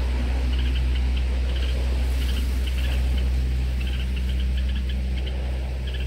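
Small bird chirping in short quick bursts, again and again, over a loud steady low hum like an idling engine.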